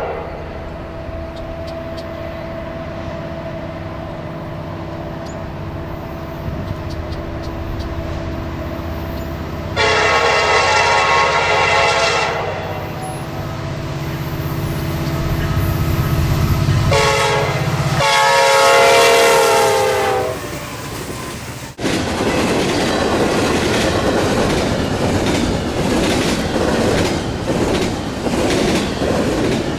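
A locomotive's engine rumbles as a train nears, and its horn sounds two blasts, the second longer and dropping slightly in pitch as it ends. Then the train's wheels clatter past over the rail joints in a steady clickety-clack.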